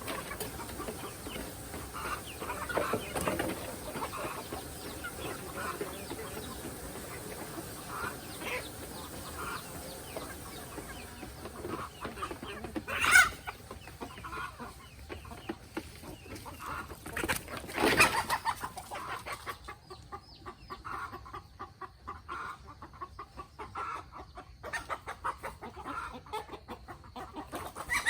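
Free-range chickens clucking, with two louder calls about 13 and 18 seconds in. In the second half there are many quick short taps alongside.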